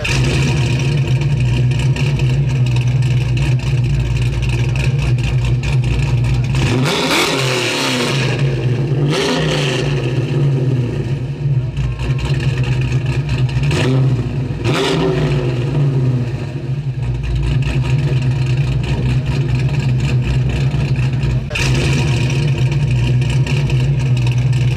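A car engine idling with a steady low note. It is revved several times: about a third of the way in, again shortly after, and around the middle, its pitch sweeping up and back down each time.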